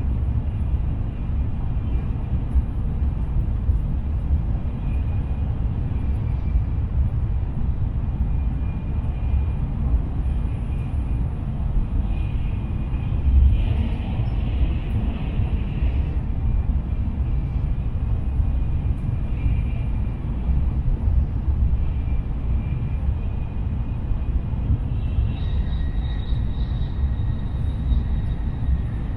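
Tokaido Shinkansen running at speed, heard inside the passenger cabin: a steady low rumble with faint high whining tones above it.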